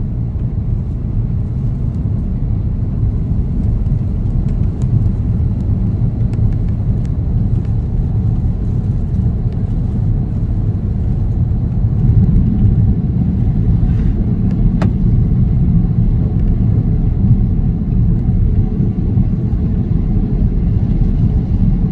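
Steady low rumble inside the cabin of an Airbus A330-900: its Rolls-Royce Trent 7000 engines and airflow heard through the fuselage, growing slightly louder in two steps. A faint click about fifteen seconds in.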